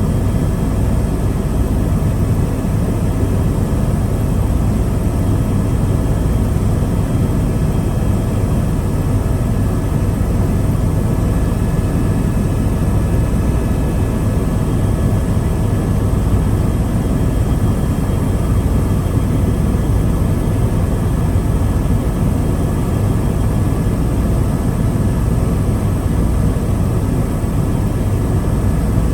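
Helicopter in steady flight: constant loud engine and rotor noise, heaviest in the low range, with a few faint steady whines above it.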